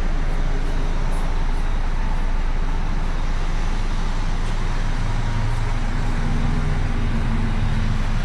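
Steady rushing background noise with a low vehicle engine hum that grows stronger about five seconds in.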